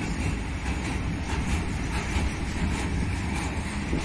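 Freight train of open wagons loaded with rock rolling past, a steady rumble of steel wheels on the rails with faint irregular clicks.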